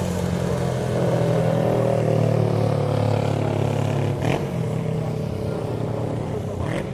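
Historic motorcycles riding past in a parade, several engines running together. One bike passes close about four seconds in and another near the end.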